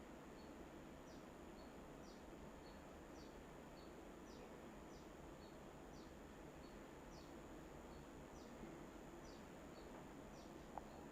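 A bird repeating a faint, high two-part call about once a second: a short downward slur, then a brief note. It goes over a steady low background hiss, with a single small click near the end.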